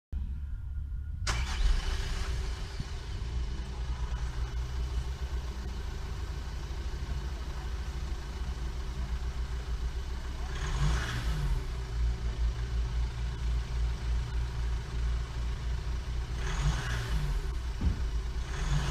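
Volkswagen Amarok diesel engine starting about a second in, then running at idle with two short revs, about ten and sixteen seconds in.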